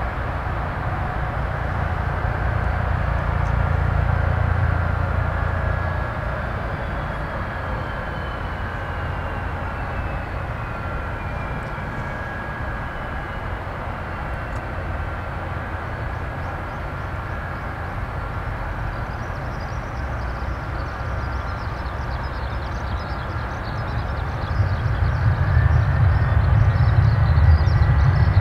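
Boeing 737-800's CFM56-7B jet engines running, a steady rumble with whining tones and a whine that falls in pitch early on. It grows louder near the end, with a deeper rumble and more hiss.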